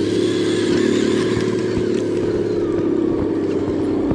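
Steady whine from an RC scale crawler truck's electric motor and geartrain, holding one pitch.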